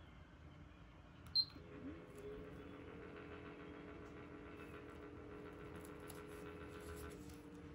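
IRIS Ohyama PCF-SDC15T air circulator: a short beep about a second and a half in, then its motor spins up with a brief rising whine and settles into a steady hum. A faint, fast, even ticking runs over the hum until about seven seconds in.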